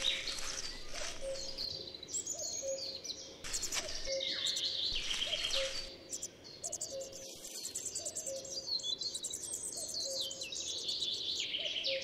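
Songbirds singing and calling: many high, quick twittering phrases, with a low note repeated evenly about every two-thirds of a second throughout.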